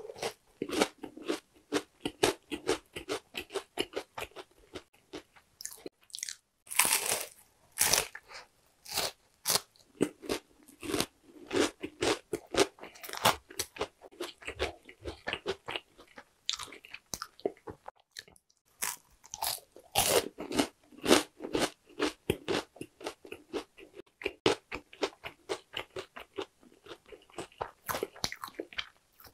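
Close-miked crunching and chewing of oranda, a crisp snack of puffed grain balls bound in syrup, with a few louder bursts of crunching between steadier chewing.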